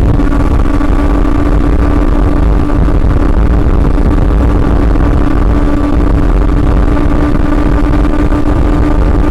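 Honda CB400 Super Four inline-four engine running at a steady, held engine speed while the bike is ridden, its pitch hardly changing, under a heavy low rumble.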